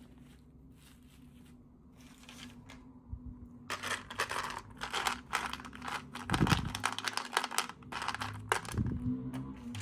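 Packaging being torn open and crinkled by hand. It starts a few seconds in and runs as a dense run of rustling, tearing strokes until shortly before the end.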